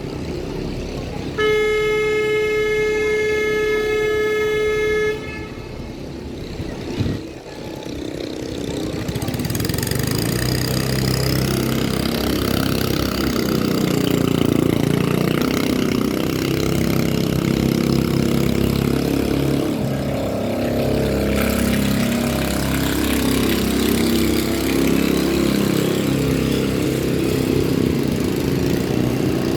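A horn gives one long, steady blast of about four seconds. It is followed by a busy mix of engine noise and voices.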